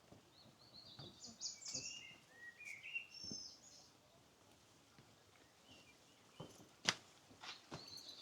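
Faint birdsong: a quick run of short, high chirping notes, some sliding down in pitch, over the first few seconds. A few sharp clicks follow near the end.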